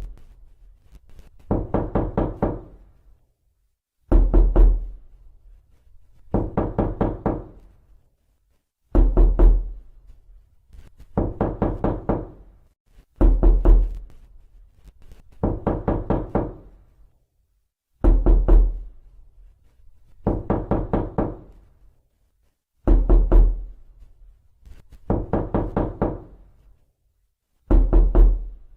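Knocking on a door, repeated over and over. Each round is a loud group of several rapid knocks, then a softer group of several knocks about two seconds later, and the rounds recur about every four and a half seconds.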